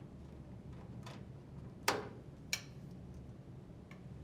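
A few sharp plastic clicks and taps: the washer's door lock wire harness connector being handled and unplugged. The loudest click comes about two seconds in, followed by a second about half a second later.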